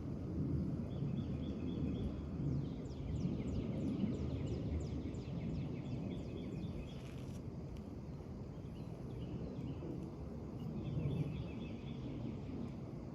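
Outdoor ambience: songbirds chirping, with one bird singing a run of quick falling notes, about four a second, a few seconds in, over a steady low rumble.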